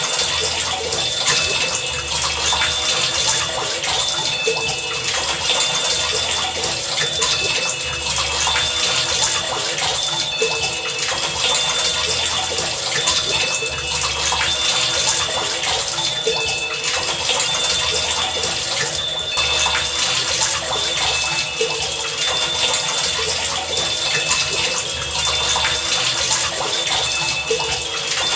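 Heavy rain falling in a steady, dense hiss. Short high tones and low pulses repeat through it in a regular pattern about every two seconds.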